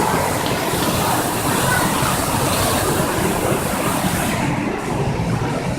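Steady rushing noise of running water from a waterfall or fountain, its hiss dropping away about four seconds in, with faint voices behind it.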